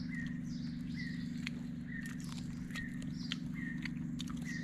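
A bird repeating a short, high call about once a second, over a steady low hum, with scattered light clicks.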